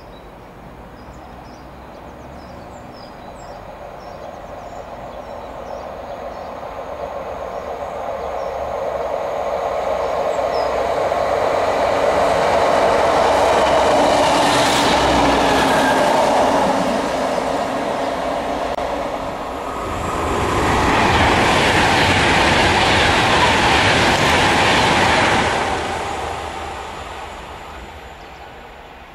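A passenger train passing close at speed on the main line, its rushing rumble building over several seconds to a loud peak. It dips briefly and then surges again, brighter and hissier, before fading away.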